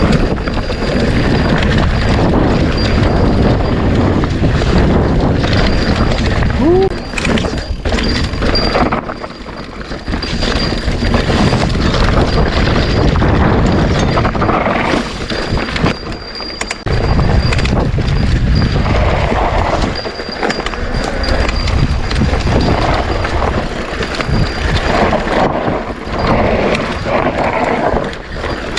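Mountain bike ridden over a rough dirt trail: wind rumbling on the camera microphone, with knocks and rattles from the bike over bumps.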